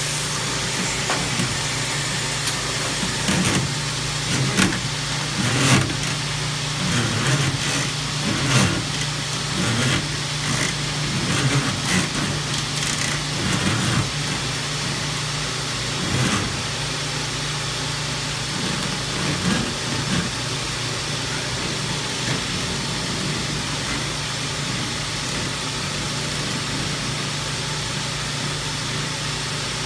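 A dryer vent cleaning machine runs steadily, its vacuum motor and rotary duct brush both going. Irregular knocks and rattles sound over the first half, then it settles into a steady hum.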